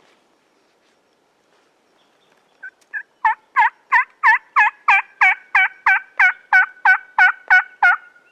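A long run of turkey yelps, about seventeen evenly paced notes at roughly three a second. The first couple are soft, then the series turns loud and holds.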